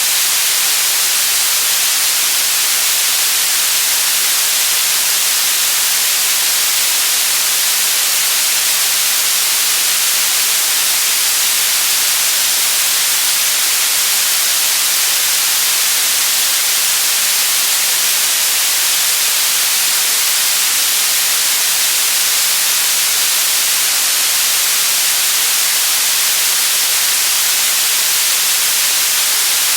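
Steady white noise: an even, unbroken hiss, strongest in the high range and never changing.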